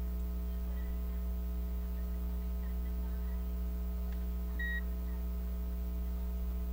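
Steady electrical mains hum, with one short high-pitched electronic beep about four and a half seconds in.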